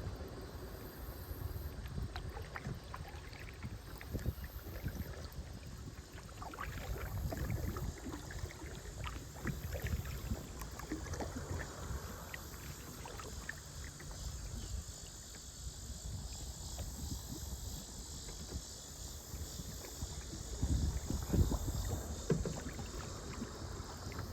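Kayak paddle dipping and splashing water in irregular strokes, over a low rumble of wind on the microphone that gusts harder about twenty seconds in.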